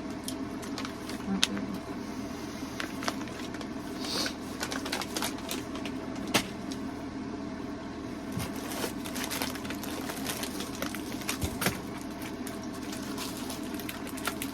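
A steady low hum with scattered small clicks and crackles on top.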